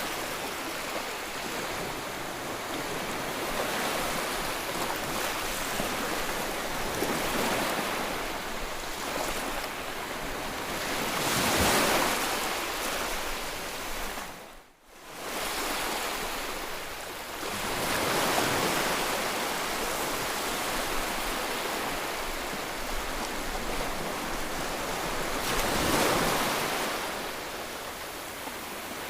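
Ocean surf: a steady wash of waves with slow swells as larger waves break, about 12 and 26 seconds in. The sound drops out almost completely for a moment about halfway through, then resumes.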